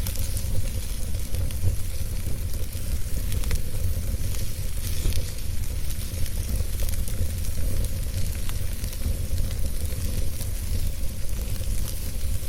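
Wood fire burning in a fireplace: a steady low roar with scattered small crackles and pops.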